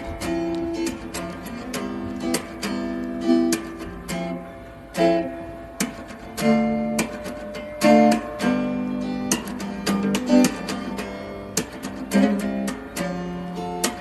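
Acoustic guitar music, strummed and plucked chords in an unhurried rhythm.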